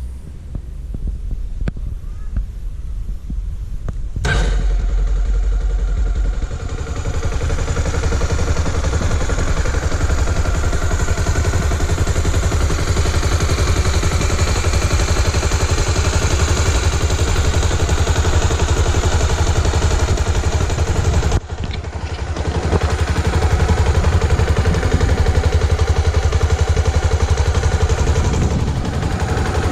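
Honda XR 250 Tornado's single-cylinder four-stroke engine running with a steady throb. It gets much louder about four seconds in, cuts out for a moment about two-thirds of the way through, then runs on a little louder.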